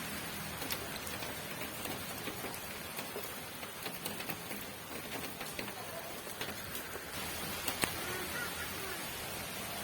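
Steady rain falling, an even hiss dotted with faint drips and one sharper drop about eight seconds in.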